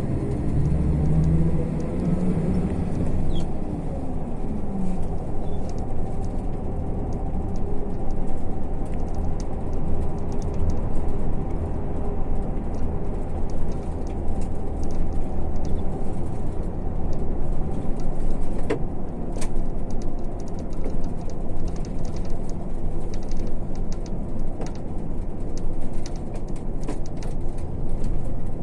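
MAZ-152 coach's diesel engine and road noise heard from inside the passenger cabin while under way, with an engine tone falling away over the first few seconds. Scattered light rattles appear in the second half.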